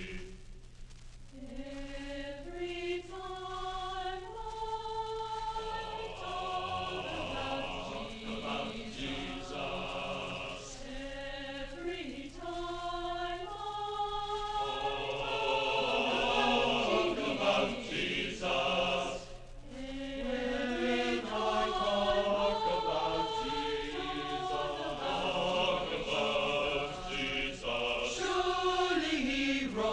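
Choir singing, several voices holding notes that move in steps, growing louder about halfway through. A faint steady low hum runs underneath.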